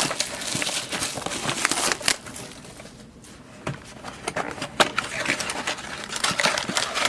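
Hands handling a trading card box and its packaging: rustling and crinkling with many small clicks and knocks. The sound dips quieter for a second or so in the middle.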